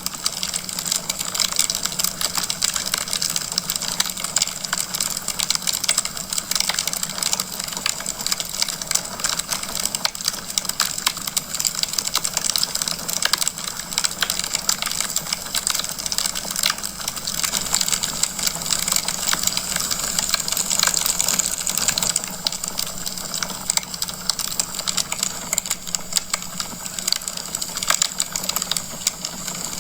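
Wood fire in a fireplace crackling, with dense, irregular pops and snaps over a steady hiss and a faint low hum.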